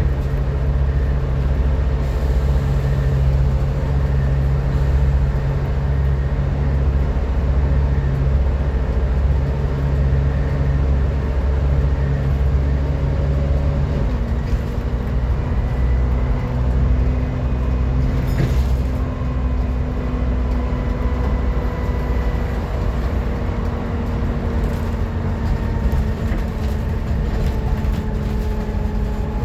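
Volvo B7TL bus engine running under way, with a steady low drone and a high vacuum-cleaner-like whine (a 'hoover'). About halfway through the engine note shifts, and the whine then slowly falls in pitch.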